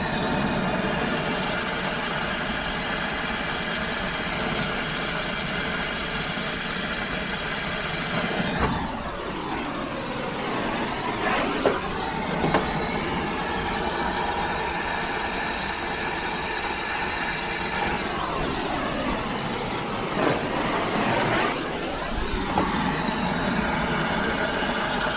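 Brazing torch flame burning with a steady hiss while copper joints on a heat pump's reversing valve are brazed.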